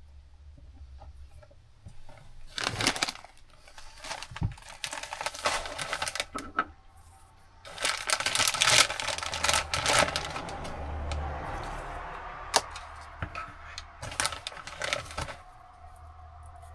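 Rustling and crinkling of packaging being handled, with scattered clicks and knocks, loudest in two stretches, a few seconds in and again about halfway.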